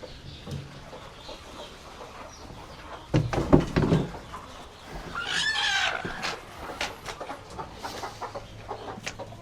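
Chickens clucking, with one loud drawn-out call about five seconds in. A brief clatter of knocks about three seconds in is the loudest sound.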